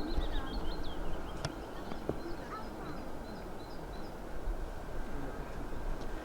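Birds calling: a quick run of short high chirps in the first second or so and a few more around three to four seconds in, over a steady low rumble.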